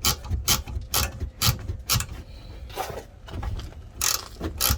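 Hand ratchet wrench clicking as it is worked on a suspension bolt, in short strokes about twice a second; it pauses about halfway through, then resumes in a quicker flurry near the end.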